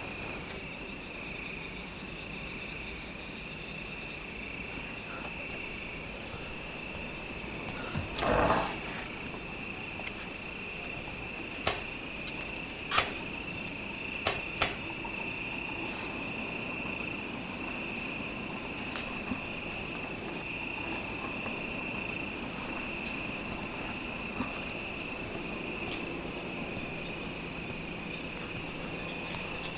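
Crickets chirring steadily in a night chorus, with a short louder rush about eight seconds in and a few sharp cracks a little later.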